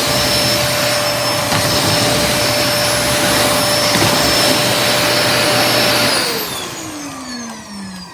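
Vacuum cleaner motor running at a steady pitch, then switched off about six seconds in and winding down with a falling whine.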